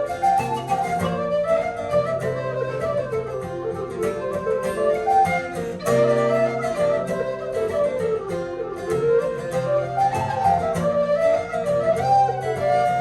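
Irish traditional dance tune played live: a wind instrument carries a fast, ornamented melody over plucked-string backing and a steady low sustained tone.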